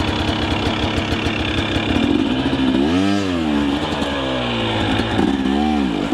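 Two-stroke enduro dirt bike engine running, with the throttle blipped twice so the revs rise and fall, about halfway through and again near the end.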